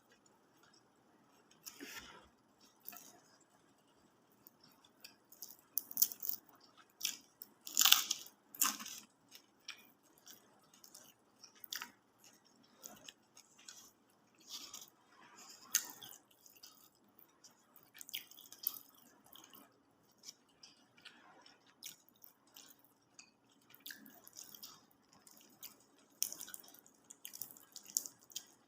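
Close-up wet chewing and mouth smacking of someone eating rice and side dishes, with scattered short crunches and clicks at an irregular pace; the loudest smacks come around eight seconds in.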